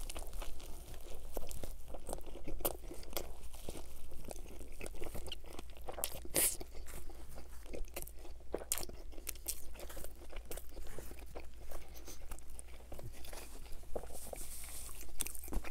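Close-miked biting into and chewing of a soft-bun steak sandwich with lettuce: wet, sticky mouth sounds with many small crunches and clicks, a few sharper crunches about six seconds in.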